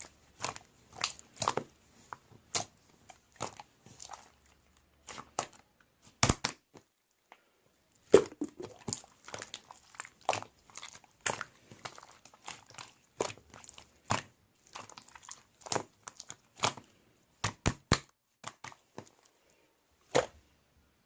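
Slime being squeezed and poked by hand, making irregular sticky clicks and pops, one to three a second, with a short pause partway through.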